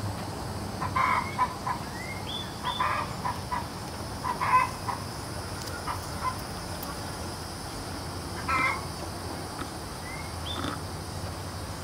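Birds giving short, scattered calls, about seven in all, some with a quick upward slide in pitch.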